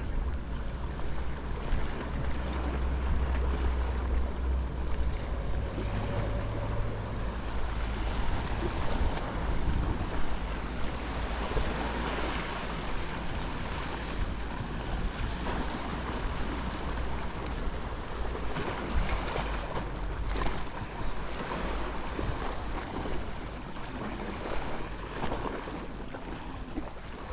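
Mediterranean surf washing onto the shore in an uneven rush that swells and ebbs. Wind buffets the microphone as a low rumble, heaviest in the first several seconds.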